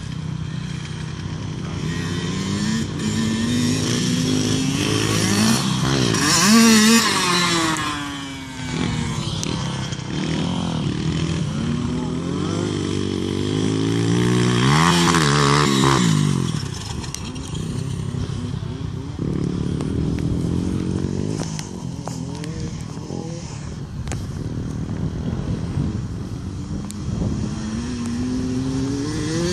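Motocross dirt bike engines revving up and down repeatedly as they ride the track, rising to loud peaks about seven seconds in and again about fifteen seconds in.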